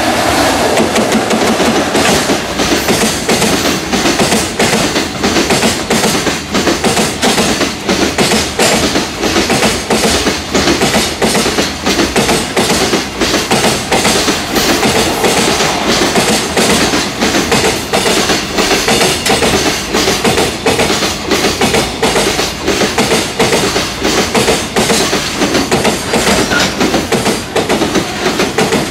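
Long freight train of container wagons passing at speed, its wheels clattering over the rail joints in a fast, steady run of clicks.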